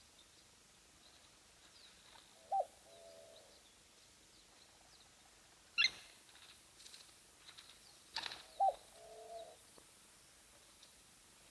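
Birds calling outdoors: a short mid-pitched call heard twice, a sharp high call between them, and faint high chirps in the background.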